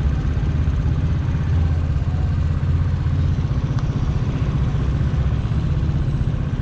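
Italika DT 125 motorcycle's single-cylinder four-stroke engine running steadily at cruising speed, with wind and road noise.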